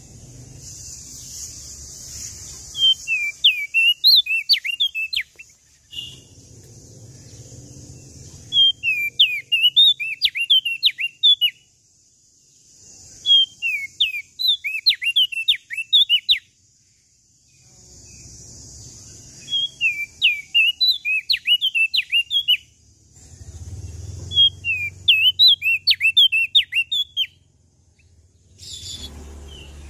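A small songbird sold as 'prenjak daun lombok' singing a fast, high, chattering song in repeated bouts of quick chirping notes, five phrases about five seconds apart, as used to provoke caged white-eyes into song.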